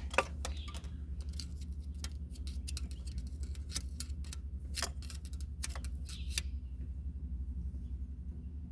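Irregular sharp light clicks and ticks, a few a second, over a steady low hum; the clicks stop about six and a half seconds in, leaving only the hum.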